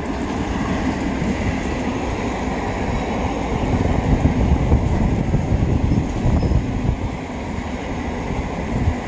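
Electric multiple unit (EMU) local train running past at close range: a steady, loud rumble of its wheels on the rails.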